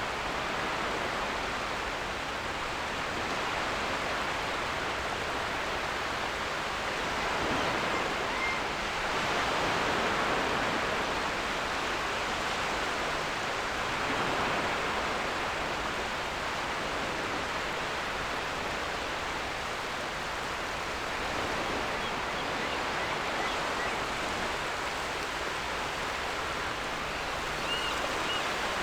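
Ocean waves washing on a beach, a steady rush that swells and eases every few seconds. Faint short seagull calls come through, once about eight seconds in and twice near the end.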